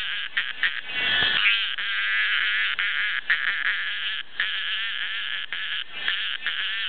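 Cicada buzzing loudly, a harsh continuous drone broken by several brief pauses.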